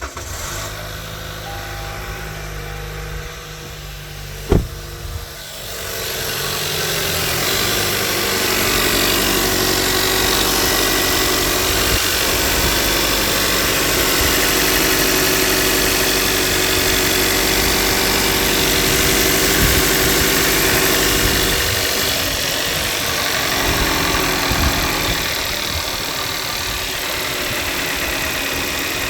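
A sharp click, then a 2018 Toyota Camry's engine starts about six seconds in and runs at idle with a ticking noise. This is the start-up tick that goes away once the engine has run a while, and it has grown worse since about 30k miles.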